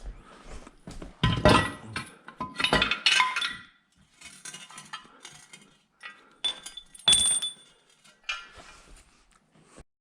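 Metal parts and tools clinking and clanking as they are handled and set down, with a few loud knocks, the loudest about a second in, around three seconds in and about seven seconds in, some ringing briefly.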